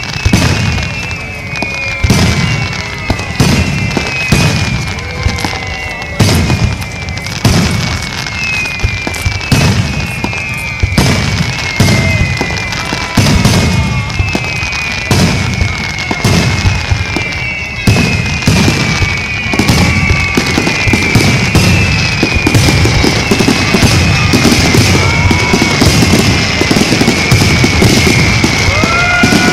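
Fireworks bursting overhead, one sharp boom after another every second or two, becoming a denser, near-continuous barrage about two-thirds of the way through.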